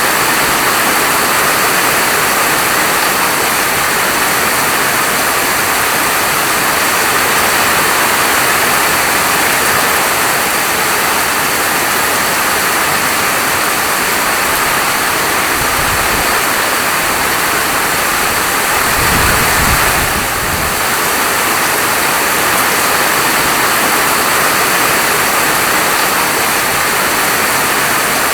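Heavy rain falling steadily as a dense, even hiss. Twice past the middle a brief low rumble rises under it.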